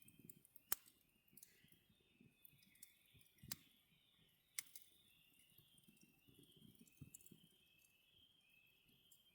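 Small campfire of gathered natural branches crackling faintly, with a few sharp isolated pops spread across several seconds.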